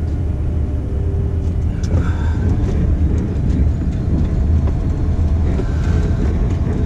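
Steady low drone of a Scania dump truck's diesel engine, heard from inside the cab while the truck runs.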